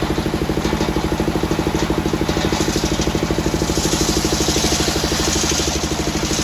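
The engine of a homemade circular sawmill runs steadily with a rapid, even pulse. A higher hiss swells about halfway through and fades near the end.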